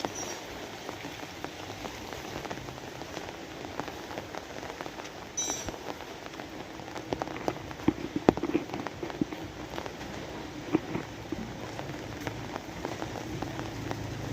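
Steady rain with many sharp, close drops striking a surface, heaviest in the middle stretch. Near the end, a low rumble begins to build.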